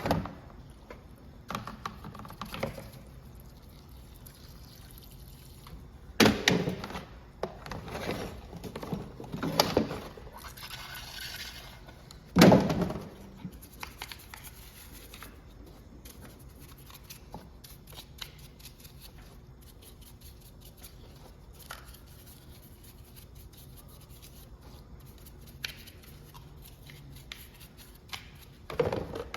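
Occasional knocks and clinks of hand tools and small parts being handled during an Echo string trimmer clutch repair, the loudest about six and twelve and a half seconds in, with a short hiss around eleven seconds; quiet room noise in between.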